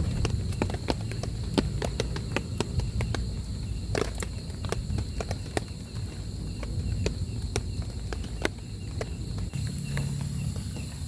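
Large raindrops tapping irregularly, a few sharp taps a second, over a steady low rumble.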